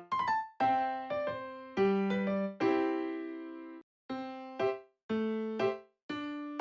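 Background music: a light piano or electric-piano tune played in separate notes and short chords, each dying away, with a couple of brief gaps between phrases.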